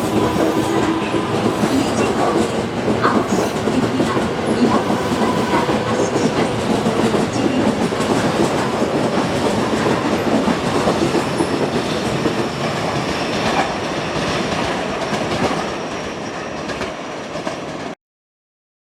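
A 12-car JR West 225 series and 223 series electric train pulling out of the station, its wheels clacking over the rail joints as the cars roll past. The sound eases off slightly near the end, then cuts off suddenly.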